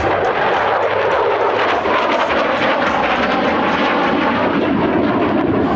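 Jet engine noise of an F-16 fighter in flight: a loud, steady rush that stays at full strength throughout.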